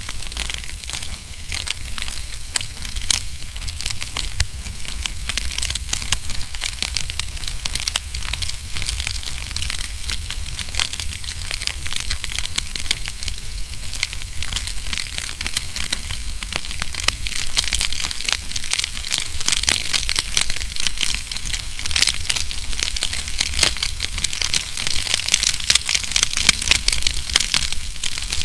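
Wood fire burning in a fireplace: dense, irregular crackling with sharp snaps and pops over a low steady rumble, the snaps growing more frequent in the second half.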